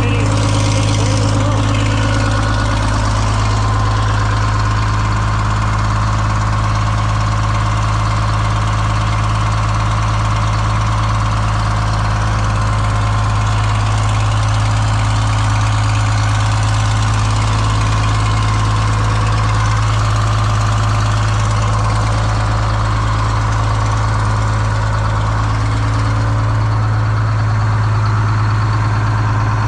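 Detroit Diesel 6-71 two-stroke inline-six diesel idling steadily, with a strong low hum and no change in speed.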